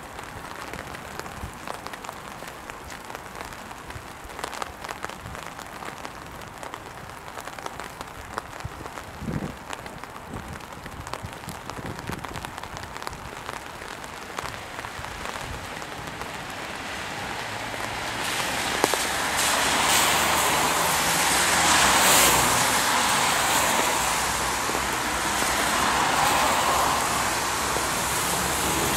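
Steady rain with many close drops ticking sharply. From about two-thirds of the way in, a louder hiss of tyres on the wet road swells and rises and falls as vehicles pass.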